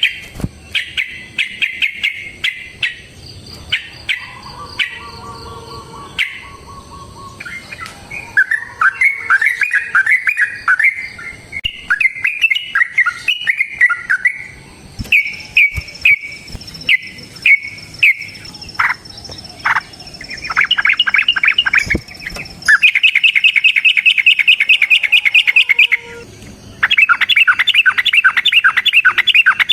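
Yellow-vented bulbul (trucukan) singing loudly: clusters of sharp chattering notes and warbling phrases, then long, very rapid trilled runs in the second half. This is the long-trilling 'ropel' song kept by bird keepers as a lure and master song.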